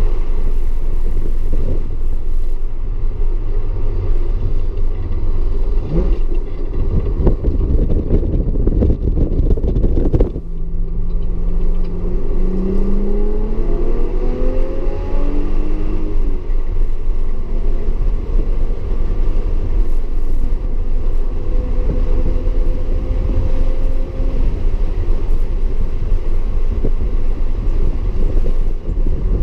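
Audi S4 engine running hard on a race lap under a steady low rumble. About twelve seconds in, the revs climb steadily through a gear, then settle.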